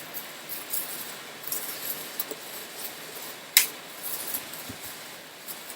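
Light kitchen handling noises: faint rustles and small clinks of utensils and food being moved about, with one sharp click a little past halfway.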